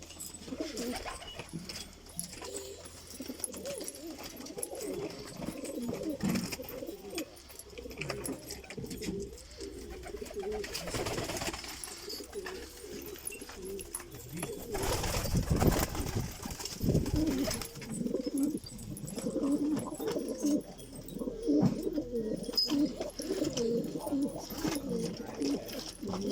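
Many domestic pigeons cooing together in a loft, with short low coos overlapping continuously. A louder rustling noise breaks in twice, around the middle.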